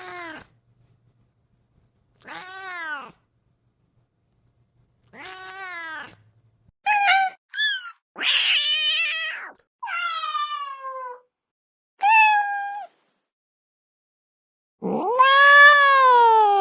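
Cat meowing over and over: about eight short-to-medium meows with silent gaps between them. Near the end comes a long, drawn-out, wavering yowl, the loudest call.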